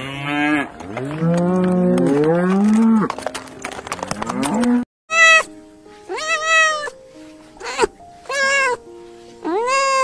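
Yaks lowing in long, low calls that slide up in pitch, through about the first three seconds. After a break about five seconds in, a kitten meows five times in high, arching calls.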